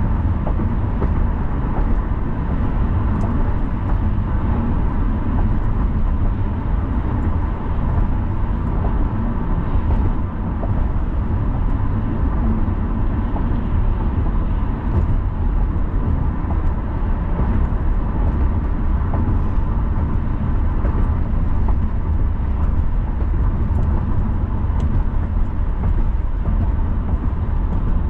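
Car driving steadily: continuous road and tyre noise with a low engine rumble, plus a faint steady tone running through it.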